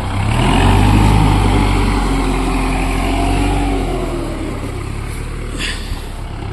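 Kubota MU4501 tractor's four-cylinder diesel engine running hard under load while it is stuck in mud with a loaded trolley. The engine rises in revs about half a second in, then slowly eases off with a falling pitch.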